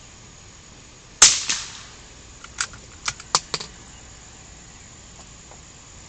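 A single gunshot a little over a second in, with a short ringing tail, followed about a second later by four quick sharp clicks.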